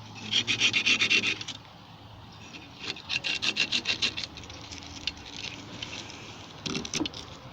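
Hand scrubbing of metal parts of a gas water heater's pilot assembly with an abrasive, in quick back-and-forth strokes that come in three or four bouts, cleaning off the thermocouple and igniter so the pilot stays lit.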